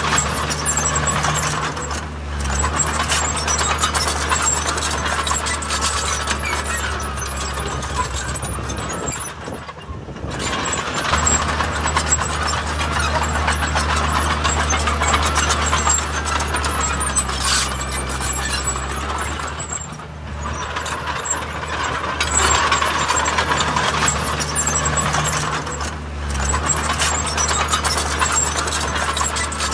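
Diesel engine of heavy earthmoving machinery working under load, with continuous metallic clanking and rattling. The engine note eases off briefly about four times and then picks up again.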